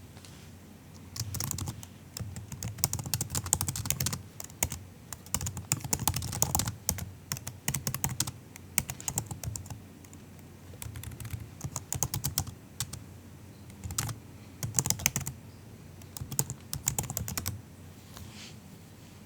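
Typing on a MacBook's built-in keyboard: soft, quick keystrokes in uneven runs with short pauses, settling into a pause near the end.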